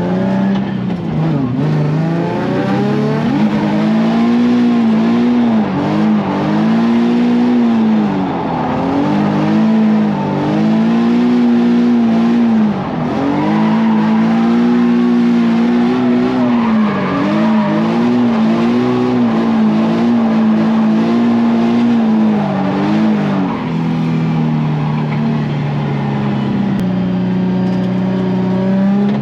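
Nissan 350Z drift car's engine at high revs, the pitch swinging up and down again and again as the throttle is worked through a drift, with tyres squealing. Over the last few seconds the revs hold steadier.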